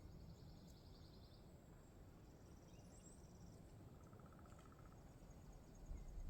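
Near silence outdoors with four faint, short, high trills at different pitches, one after another; a low rumble starts just before the end.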